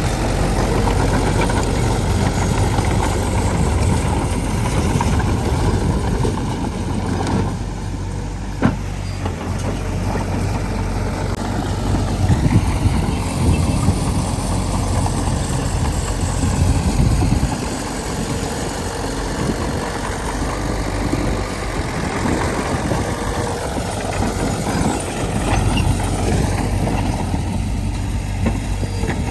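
Heavy diesel earthmoving machinery, a bulldozer and dump truck, running steadily, the engine note swelling and easing with load, with a single sharp knock about nine seconds in.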